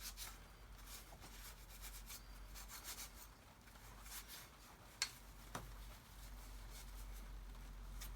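Wire wool loaded with wax scrubbing a rusty metal toolbox handle: faint, irregular scratchy strokes, with one sharp click about five seconds in.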